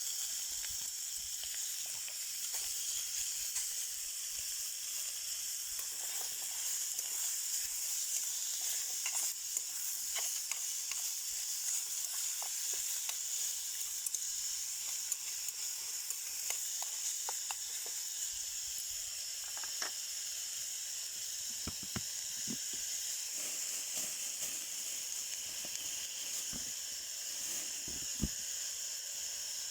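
Meat sizzling on a small camp grill: a steady high hiss, with scattered short pops and crackles that come more often in the second half.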